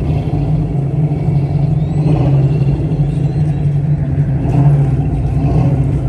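A car engine running steadily at low revs: a low, even drone with no revving.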